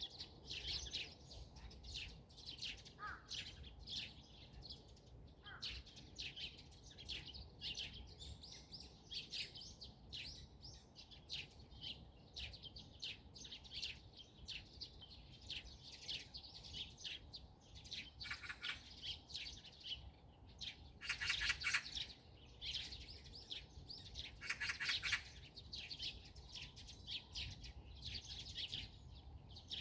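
Wild songbirds chirping and twittering: a continuous run of short, high notes, with a few louder rapid trills about two-thirds of the way through.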